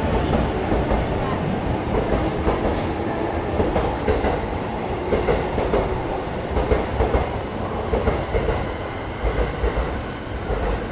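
Electric commuter train running past the platform, its wheels clicking and rumbling over the rail joints, the sound easing off near the end.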